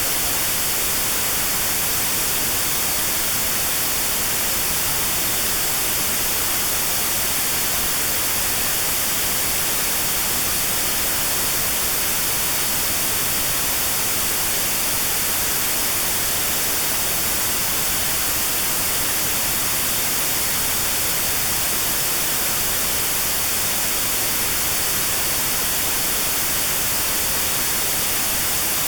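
Steady white noise with a narrow band around 4 kHz cut out (notch-filtered noise for tinnitus sound therapy), an even, unchanging hiss.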